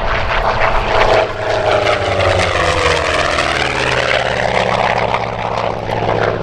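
Aircraft engines flying past, the engine note sliding down in pitch as it passes.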